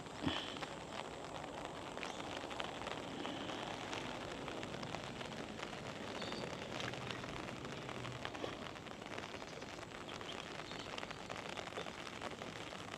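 Steady monsoon rain falling, a dense patter of fine drop ticks. One brief louder sound comes about a third of a second in.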